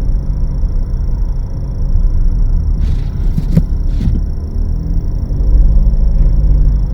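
A car engine running with a steady low rumble, with a few short knocks about three and a half seconds in.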